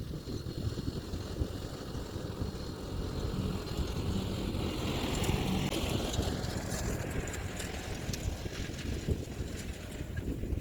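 Kioti DK4710SE diesel tractor running steadily while it pulls a landscape rake across the yard. The sound grows a little louder midway, then eases off.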